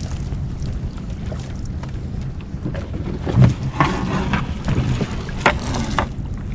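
Small fishing boat's engine idling steadily, with scattered knocks and clatter as the crab gill net is hauled aboard.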